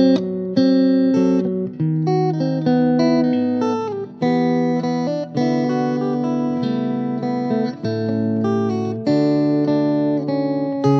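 Giannini electric guitar played through a Meteoro amplifier on a clean tone. Chords are strummed and left to ring, a new chord about every half second to second.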